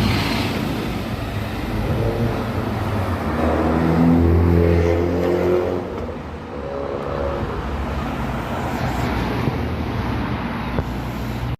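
A vehicle engine running loudly, rising in pitch as it accelerates for a few seconds. It drops off about six seconds in, then runs on steadily until the sound cuts off abruptly at the end.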